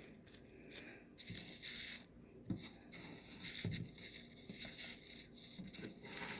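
Faint rustling and scraping of craft materials being handled on a tabletop, with a few soft knocks.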